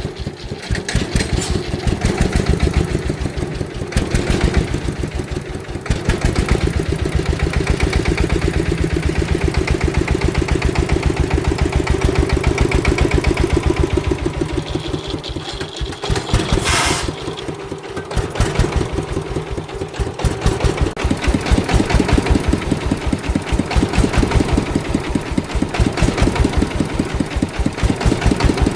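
An agricultural vehicle's engine running under changing load, its level dipping and picking up again several times as it works. About halfway through there is a short hiss.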